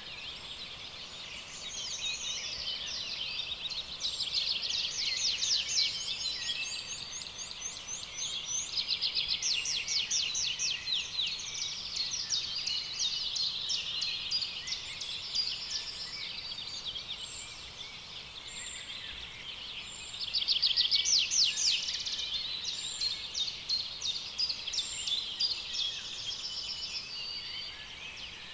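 A dense chorus of many birds calling at once, with rapid high trills and chirps overlapping continuously. It swells louder a few times, most strongly about two-thirds of the way through.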